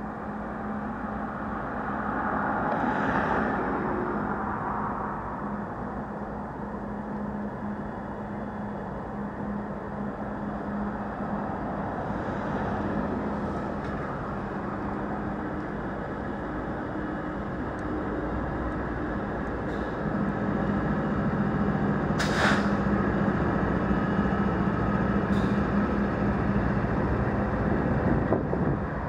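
Freight train rolling past: a steady rumble of cars on the rails with a low steady hum, and two sharp clicks near the end, the louder one about three-quarters of the way through.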